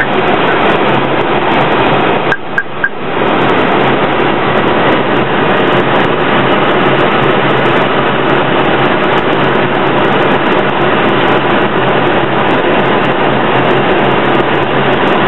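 Steady airflow and engine noise inside the flight deck of an Airbus A321 on approach, with a constant low hum beneath. About two and a half seconds in, the noise dips briefly and three short high beeps sound.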